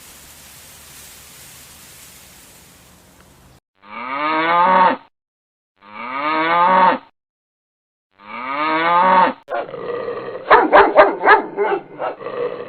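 A cow mooing three times, each moo a long call of about a second with gaps between. After the third moo comes a quick run of short, sharp animal calls.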